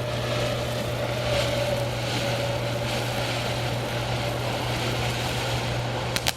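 Consumer ground firework (Pyro Fan) burning with a steady rushing hiss carrying a low hum and a faint steady tone; about six seconds in it breaks into rapid crackling.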